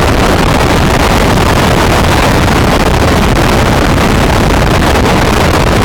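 Allison boat running at cruising speed: loud, steady motor noise with a low rumble, mixed with wind buffeting the microphone.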